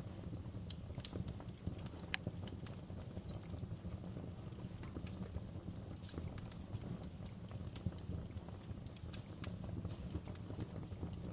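Wood fire crackling in a fireplace: irregular sharp pops and snaps, one louder pop about two seconds in, over a steady low rumble of the burning logs.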